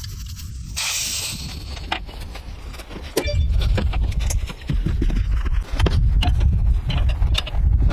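Metallic clinking and knocking, many sharp strikes, over a low rumble that comes and goes, with a short hiss about a second in.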